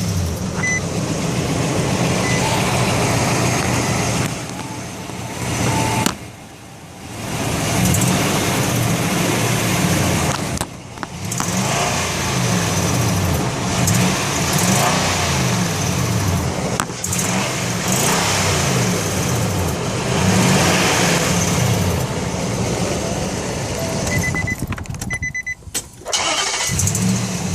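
2008 Nissan Titan's 5.6-litre V8 running and revved up and down again and again, with a rattle from around the exhaust pipe or catalytic converters. The owner thinks the rattle may be a loose heat shield or a broken catalytic converter.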